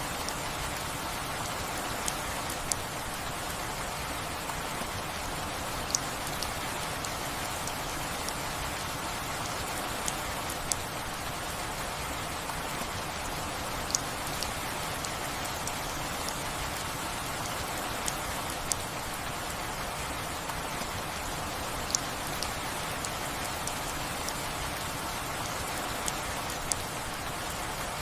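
Steady rain falling, with single sharp drop impacts ticking out above it every few seconds, often two in quick succession.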